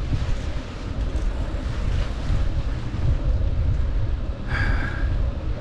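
Wind buffeting the microphone of a moving bicycle, a heavy, uneven low rumble, with a brief higher-pitched call or squeak about four and a half seconds in.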